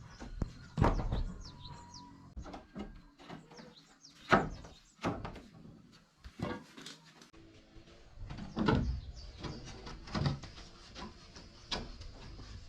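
Irregular knocks, thuds and scrapes of hand work with wood, with birds chirping.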